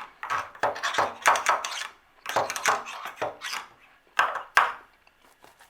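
A hand tool scraping and knocking inside a water heater drain valve, digging out caked sediment buildup, in three runs of quick strokes that stop near the end.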